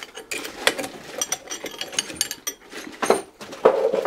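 Irregular mechanical clicking and rattling of hand tools and engine parts being handled during the teardown of a Simson S51 two-stroke engine.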